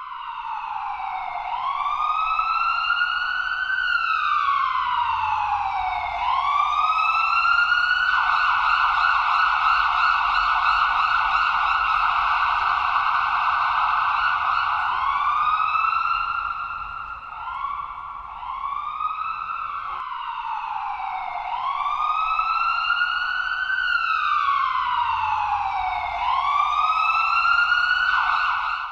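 Ambulance siren sounding. It starts in a slow rising and falling wail, switches about eight seconds in to a fast yelp for several seconds, gives a few quicker rising sweeps, and returns to the slow wail about twenty seconds in.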